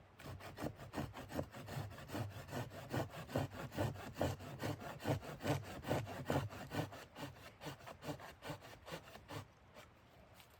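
Hand saw cutting through wood in quick, even back-and-forth strokes, about four or five a second, stopping shortly before the end.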